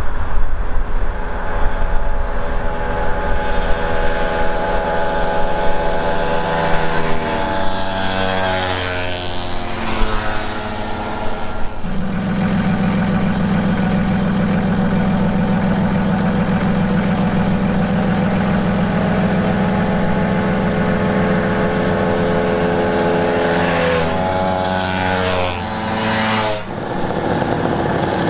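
Small two-stroke moped engines running at road speed. The engine note falls twice, about a third of the way in and again near the end, with a steady hum between.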